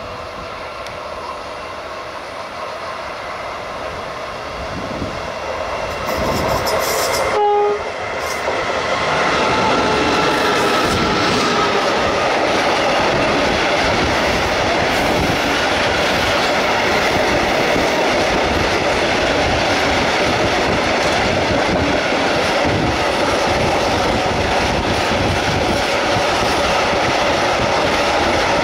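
Stadler Eurodual locomotive hauling a fuel train: it approaches, growing louder, with its horn sounding. From about eight seconds in, the locomotive and tank wagons pass close by with a steady loud rumble and wheels clicking over the rail joints.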